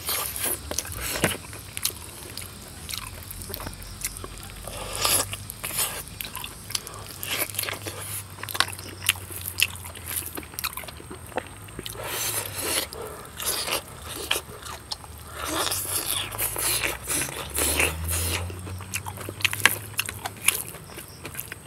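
Close-miked mukbang eating sounds: a person biting and chewing pork and rice, with many short, irregular wet clicks and smacks of the mouth.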